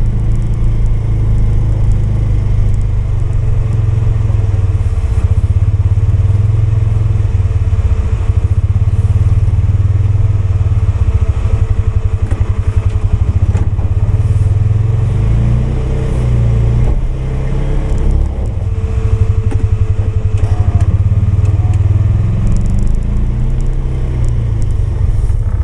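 Polaris 570 engine running steadily while pushing a snowplow, with a brief drop in its note about two-thirds of the way through.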